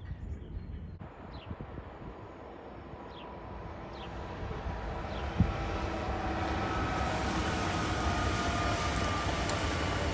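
A passing train draws near and grows steadily louder, with a steady whine of several tones over the wheel and rail noise, and a single thump about halfway through.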